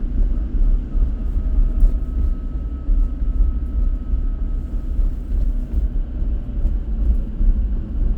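Low, steady rumble of a moving car: road and engine noise, with a faint thin whine held for a few seconds in the middle.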